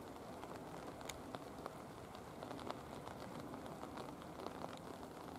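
Steady rain with scattered raindrop ticks and patter over an even hiss.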